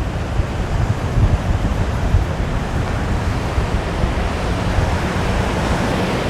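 Surf breaking in a steady rush, with strong wind buffeting the microphone in a heavy, gusting rumble.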